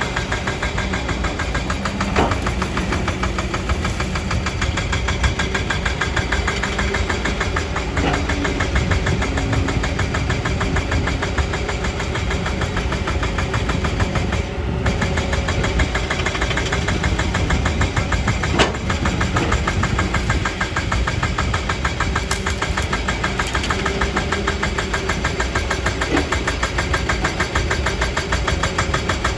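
Kobelco hydraulic excavator's diesel engine running steadily at work, with three sharp knocks, the first about two seconds in.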